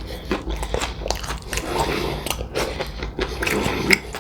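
Biting and chewing into extra crispy fried chicken: irregular crackling crunches of the fried crust, many in quick succession.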